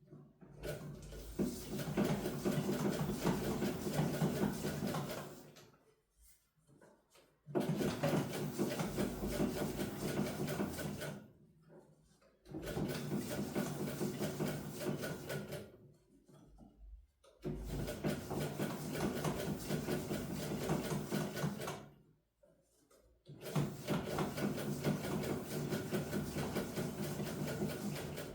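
Domestic sewing machine stitching in five runs of a few seconds each, stopping briefly between them. It is a machine that sews stiffly, which the owner says still sews only with difficulty after oiling.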